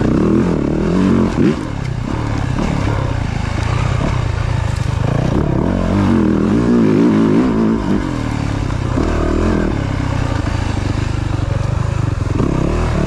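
Yamaha YZ450F dirt bike's four-stroke single-cylinder engine revving up and down as it is ridden, with the throttle briefly shut about one and a half seconds in and again about eight seconds in.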